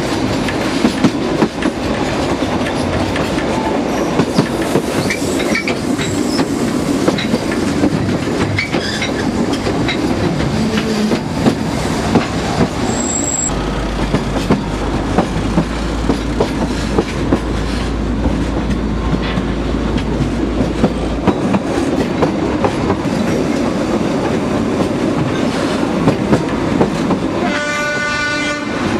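A narrow-gauge train running, its wheels clicking over the rail joints above a steady rumble. Near the end comes a short horn blast, about a second long, from the L45H diesel locomotive.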